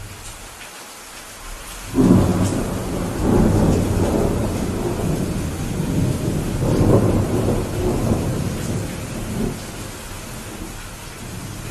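Steady rain with a long roll of thunder that breaks in suddenly about two seconds in, swells several times, and dies down near the end.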